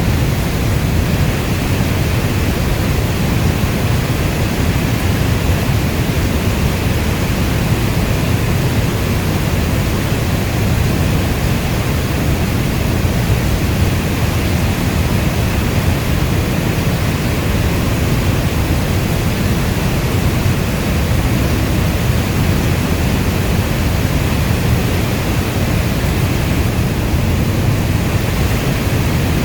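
Steady rainfall: a dense, even rush of noise, heaviest in the low end, with no thunder or single drops standing out.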